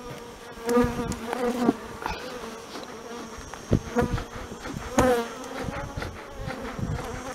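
Honey bees buzzing around an open hive. Several bees fly close past the microphone, their hum swelling and then dropping in pitch, about a second in and again around four and five seconds in.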